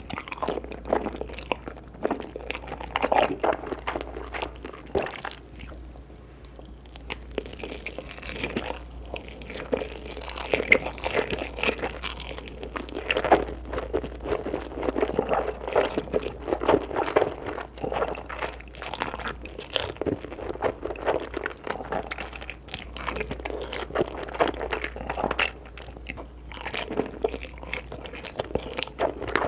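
Close-miked eating: a person biting and chewing food with repeated crunching, easing off briefly about six seconds in.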